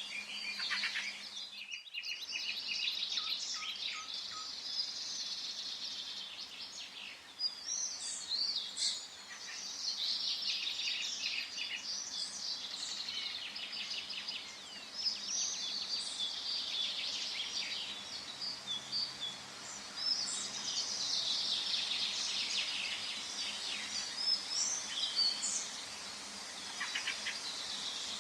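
Forest bird chorus: many small songbirds chirping and singing at once, overlapping without a break, with a brief drop-out about two seconds in.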